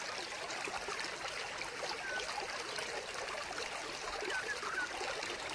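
Steady trickle of running water from a small vivarium waterfall, with faint gurgles.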